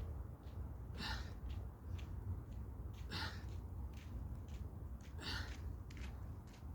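A man's sharp, forceful breaths, about one every two seconds, in time with the repetitions of a bodyweight exercise set, over a steady low rumble.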